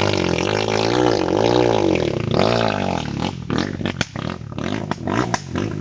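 Enduro motorcycle engine revving up and down in repeated swells, then running rough with sharp pops and cracks. A spectator puts the uneven running down to a clogged fuel injector.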